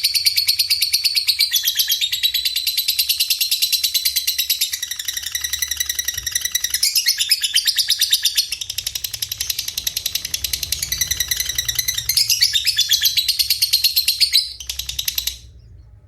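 Canary, cililin and lovebird song mixed together as a masteran training recording: fast, dense, high twittering trills layered over one another. It stops abruptly about fifteen seconds in.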